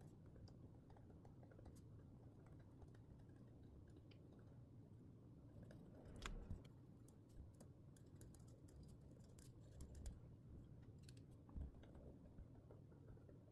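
Faint desk handling of paper and stationery while decorating a journal: scattered light clicks and taps over a low hum, with a few slightly louder knocks, the first about halfway through.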